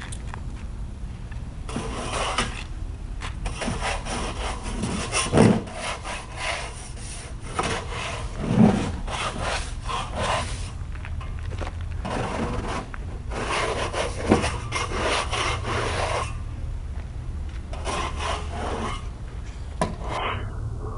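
Repeated rasping, scraping strokes in irregular runs, stopping and starting several times, over a steady low rumble.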